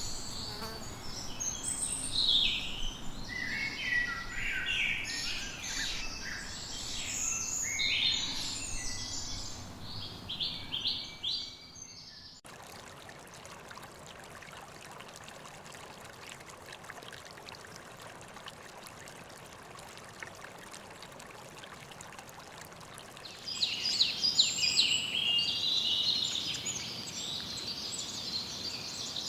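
Rainforest birds calling and chirping in a busy chorus of short high notes. About twelve seconds in it cuts abruptly to a steadier, quieter hiss, and the bird chorus returns near the end.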